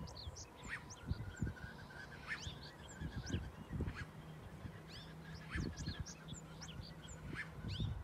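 Birds calling: many short, high-pitched chirps and peeps, some rising and some falling in pitch, over a faint low rumble.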